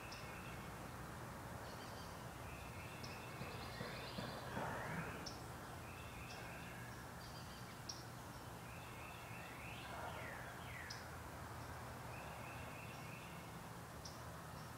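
Faint outdoor ambience: small birds chirping again and again, with a couple of sliding calls about four and ten seconds in, over a steady low hum.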